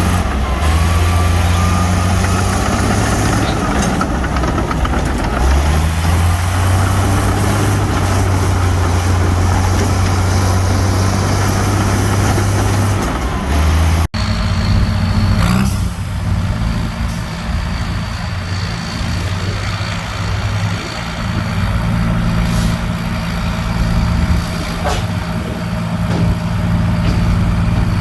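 Heavy diesel engines of earthmoving machines (bulldozers and dump trucks) running steadily under load. About halfway through, the sound breaks off abruptly and comes back with a different engine note.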